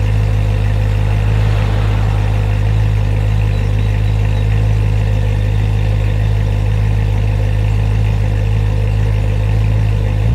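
BMW E92 M3's 4.0-litre V8 idling steadily through an M Performance exhaust, still in its cold-start warm-up. The note is even and unchanging, with no revs.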